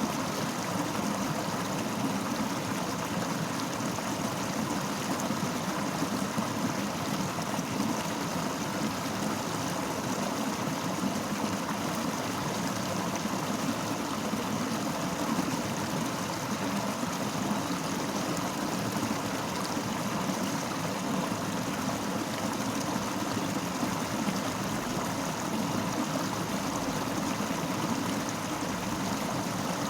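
Fast-flowing river rushing steadily over rocks, an even, unbroken water noise.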